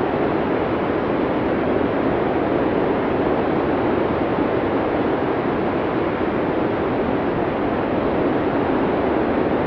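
Blizzard wind sound effect: a steady, dense rush of storm wind with no gusts or breaks, heaviest in the low middle range.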